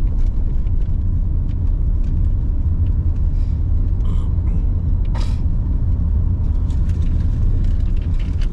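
Steady low rumble of a moving vehicle heard from inside the cabin, with scattered faint clicks and a brief sharper noise about five seconds in.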